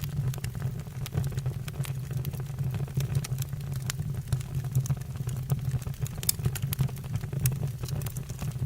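Firewood burning in a fireplace: frequent, irregular sharp crackles and pops over a steady low rumble of the flames.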